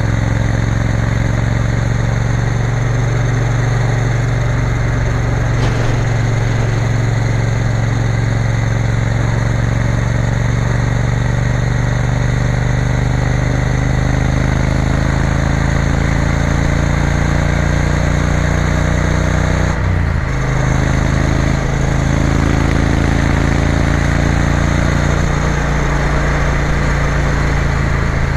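Triumph Bonneville T120 motorcycle engine running steadily under way, with a brief break and change in the engine note about two-thirds of the way through.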